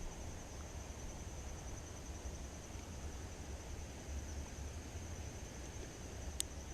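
Insects, likely crickets, trilling steadily at a high pitch, over a low rumble, with a single sharp click near the end.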